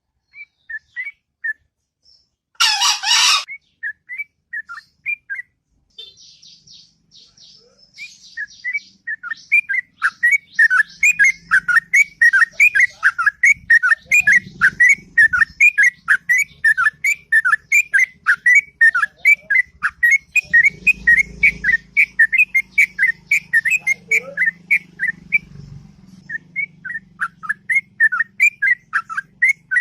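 Yellow-vented bulbul (trucuk) singing: a few scattered chirps, then a long unbroken run of rapid, repeated whistled notes, several a second. About three seconds in there is one brief loud hissing burst.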